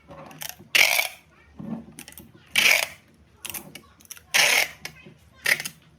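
Repeated rasping, ratchet-like mechanical noise: four loud strokes about every second and a half to two seconds, each lasting under half a second, with fainter scrapes between them.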